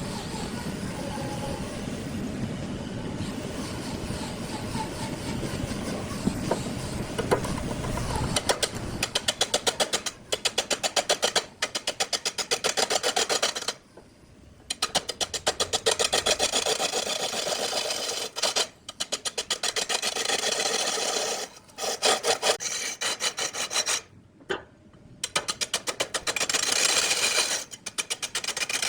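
A steady low rumble for the first eight or nine seconds. Then rapid, rhythmic sawing or rasping strokes on wood, in runs broken by short pauses.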